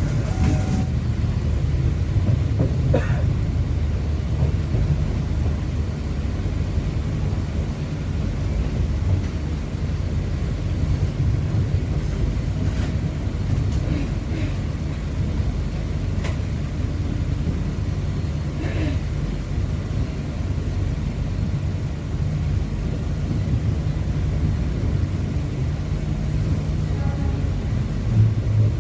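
Passenger train running, heard from inside the carriage: a steady low rumble with a few faint squeaks and clicks.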